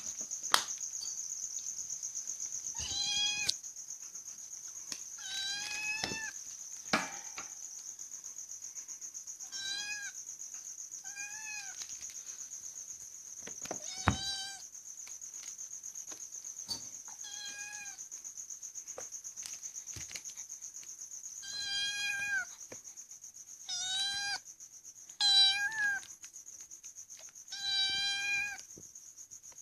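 A domestic cat meowing repeatedly, about ten short calls a few seconds apart, the later ones louder, over a steady high-pitched insect-like drone.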